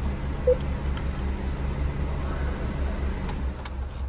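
Maruti Suzuki S-Presso's 1.0-litre three-cylinder petrol engine idling quietly, then switched off about three seconds in, followed by a few light clicks.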